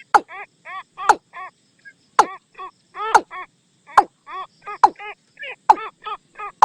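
Watercock calling: a sharp, loud note about once a second, each followed by two or three short, downward-curving notes, repeated in a steady rhythm.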